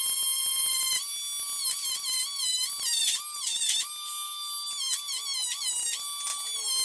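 Dremel rotary tool running at high speed with a steady high whine, its pitch dipping and recovering several times as it is pressed into the work, with short scratchy contact noise.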